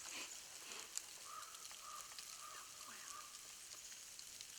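Faint outdoor quiet with a soft hiss, a few short high chirps and occasional small clicks.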